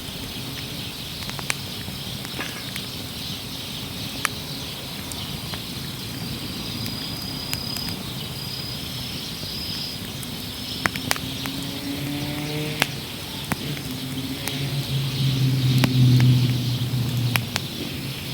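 Wood fire burning, crackling with scattered sharp pops over a steady hiss. A low hum builds up in the last few seconds and becomes the loudest sound.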